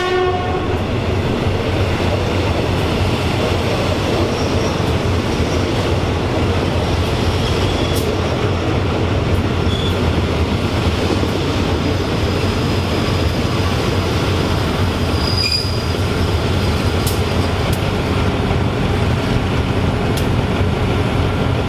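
Passenger train rolling past: a steady rumble of coach wheels on the rails, with a few sharp clicks. A horn blast ends right at the start.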